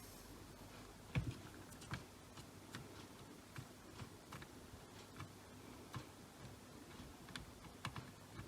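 Faint, irregular small clicks and taps, about one or two a second with the sharpest about a second in, from hand soldering: the soldering iron tip and tools touching the processor's legs and circuit board while the last side of the chip is soldered down.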